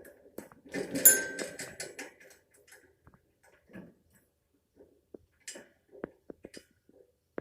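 An African grey parrot making scattered short clicks and small noises. About a second in comes one louder, sharp, briefly ringing sound.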